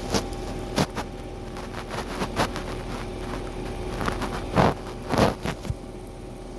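Washing machine running with a steady hum, with several short, irregular knocks and bumps over it.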